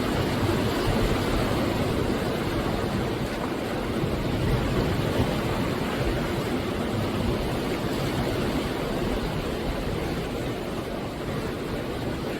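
Sea waves breaking and washing on the shore, a steady deep surf noise that swells and eases slowly.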